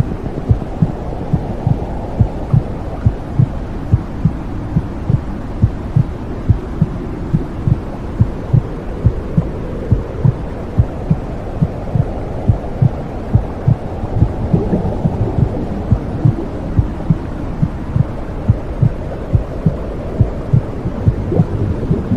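Womb sound for soothing a baby: a steady heartbeat thumping at a little over two beats a second over a continuous low whooshing hum that slowly swells and eases.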